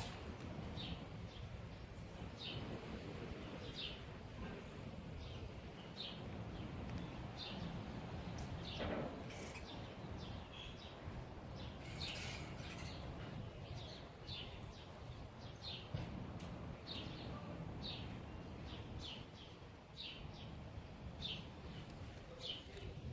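Small birds chirping: short, high chirps repeating every second or so, with one longer falling call about nine seconds in, over a steady low outdoor background noise.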